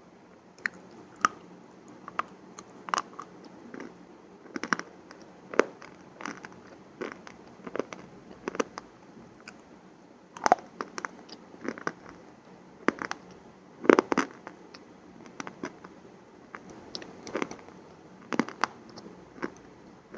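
Crunchy food being bitten and chewed close to the microphone: irregular sharp crunches and crackles, the loudest about fourteen seconds in.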